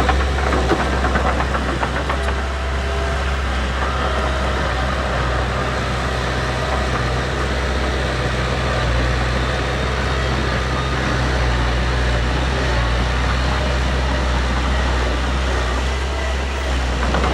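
Diesel engine of heavy earthmoving machinery running steadily, with a deep, even rumble.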